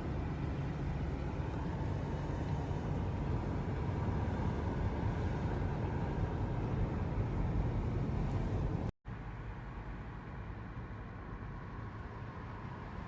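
Steady low road and engine noise heard from inside a moving car. It cuts out about nine seconds in and comes back quieter.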